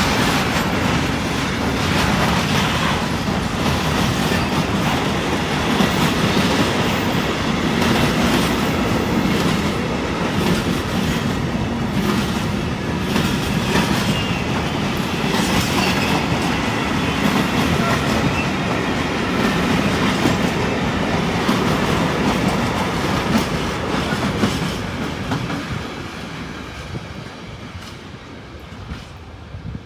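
Long freight train of container wagons rolling past, its wheels clicking steadily over the rail joints with some wheel squeal. The sound fades over the last few seconds as the end of the train goes by.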